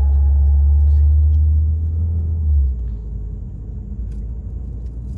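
Steady low rumble of a moving vehicle, dropping noticeably in level a little over halfway through and continuing more softly, with a few faint clicks.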